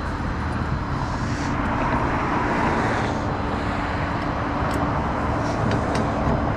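Truck engine running steadily, a constant low hum under a noisy rush, with a few light clicks in the second half.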